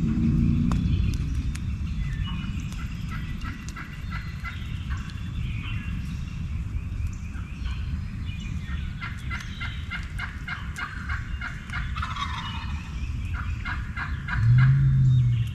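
Wild turkeys gobbling: several rapid rattling runs of notes, busiest in the second half, over a steady low rumble. A short low hum near the end is the loudest sound.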